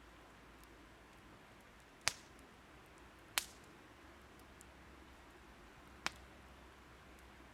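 Burning firewood crackling: three sharp pops, the first two about a second apart and the third a few seconds later, with a few faint ticks over a faint steady hiss.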